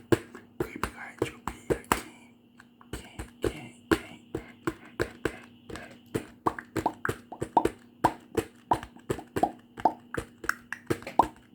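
Close-miked ASMR clicking and popping, a quick run of sharp clicks about three or four a second with a brief pause about two seconds in, over a faint steady hum.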